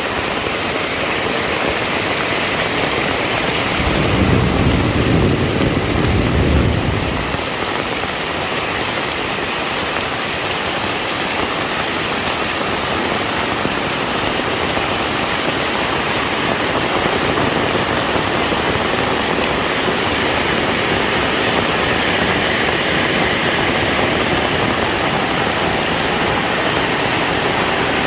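Heavy rain falling steadily as a dense, even hiss. About four seconds in, a low rumble swells and fades out some three seconds later.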